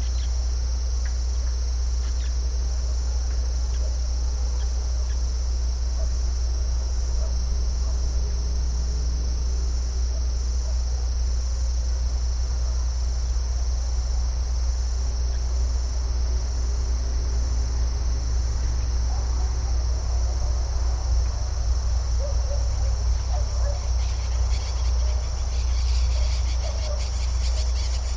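Crickets chirping in a steady high-pitched chorus over a constant low rumble. Near the end a rapid, busier chirping joins in above it.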